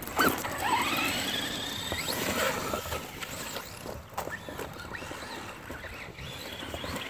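Brushless electric motor of a Traxxas Rustler VXL RC truck whining as it revs up, its pitch climbing steeply over about a second and a half, then easing off into weaker rises and falls.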